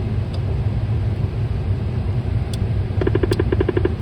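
Steady low rumble of a private jet's cockpit on final approach, from airflow and engines. About three seconds in, an electronic alert tone sounds for nearly a second, pulsing rapidly at about eight to nine beeps a second.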